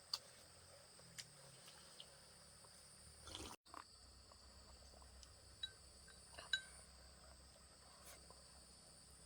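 Faint insect chorus: a steady high-pitched drone with a second, higher band, with scattered small clicks and taps. The sound cuts out completely for a moment about three and a half seconds in.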